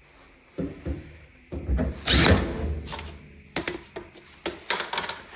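Knocks and clicks of tools and dryer parts being handled during reassembly, with one louder, longer rush of noise about two seconds in.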